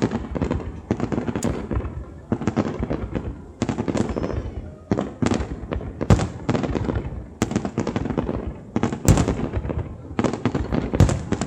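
Aerial fireworks shells bursting in the finale: a dense, continuous run of overlapping bangs, with louder booms about six and nine seconds in.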